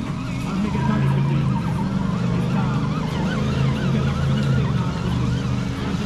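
Traxxas radio-controlled monster truck driving, its electric motor and gears whining in pitches that rise and fall with the throttle over a steady low hum.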